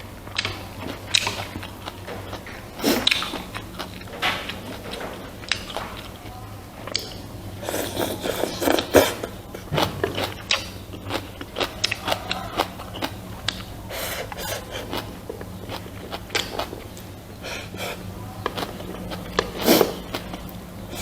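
Close-miked eating of rice and pork soup: chewing and mouth smacks as irregular short clicks, with denser bursts now and then. A steady low hum runs underneath.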